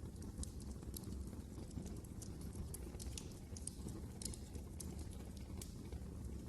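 Fireplace fire crackling: irregular sharp pops and snaps over a low steady rumble of the flames.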